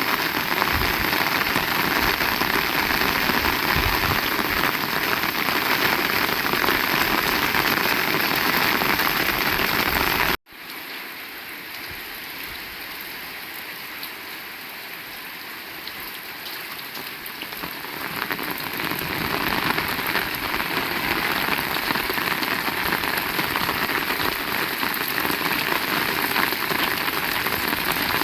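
Heavy rain falling, a dense, steady hiss. About a third of the way through it cuts off abruptly, then comes back much quieter and builds up again to full strength over several seconds.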